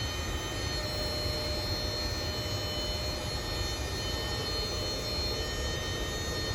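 Steady heavy rain, an even rushing noise with a low rumble under it and a few faint steady high tones above.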